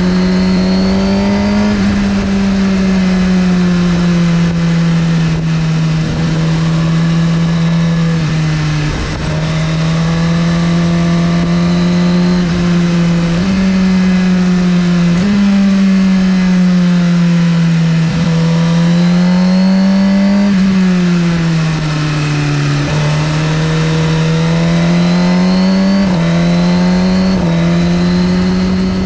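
2017 Suzuki GSX-R1000R's inline-four engine pulling on and off the throttle, its note rising and falling over and over, with sudden steps in pitch at gear changes.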